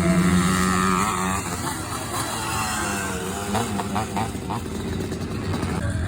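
Classic pre-1978 scramble motorcycles racing, engines revving up and down in pitch as the bikes are ridden hard around the track.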